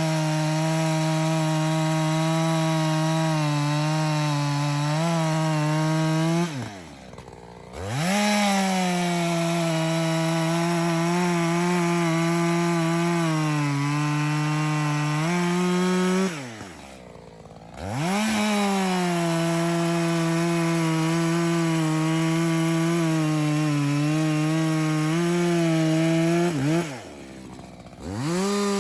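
Echo CS-620 two-stroke chainsaw cutting through a dead ash log at high revs, its pitch wavering under load. Three times the engine drops back toward idle for about a second between cuts, then revs back up into the next cut.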